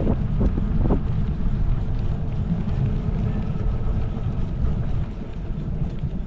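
Wind rumbling against the microphone outdoors, a steady low noise with a few brief louder gusts about a second in.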